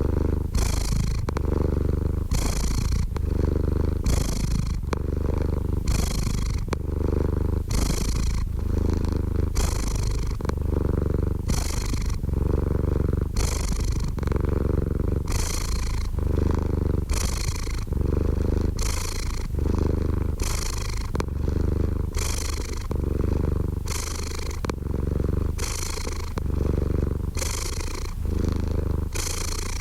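Domestic cat purring close to the microphone: a steady low rumble with a soft breathy rasp that comes and goes about once a second as the cat breathes in and out.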